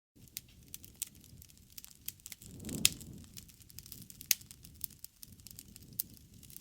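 Wood campfire crackling, with scattered sharp pops over a low rumble of flame; the loudest pop comes about three seconds in, during a brief swell of the rumble.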